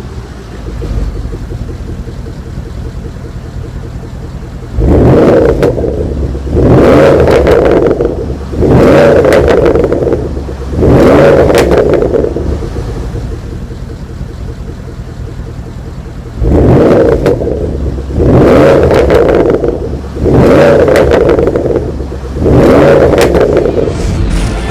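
2015 Porsche Panamera Turbo's 4.8-litre twin-turbo V8 idling through its exhaust, then blipped up in revs four times in quick succession, settling back to idle, and revved four more times.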